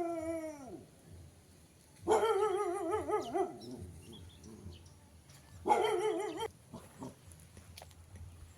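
A dog howling: a falling howl trails off at the start, then come two more wavering howls, a longer one about two seconds in and a shorter one near six seconds.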